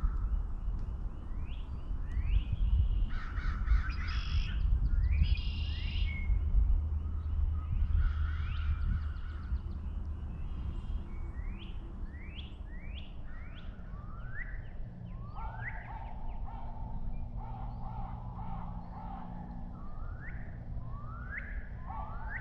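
Wild birds calling in woodland: crows cawing amid many short, repeated rising chirps from smaller birds, over a low rumble of wind. A steady low hum comes in about halfway through.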